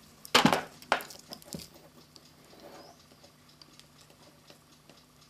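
A few sharp metallic clinks and taps as a steel punch and a clock mainspring are handled and set in place, the loudest within the first second, followed by a few faint ticks.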